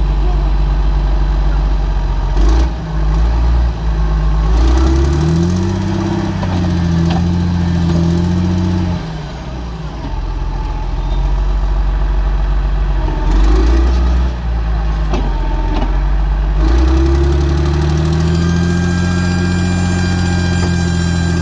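Heavy-machinery diesel engine working under load, revving up and holding high twice, settling back to a lower run in between, with a few sharp knocks.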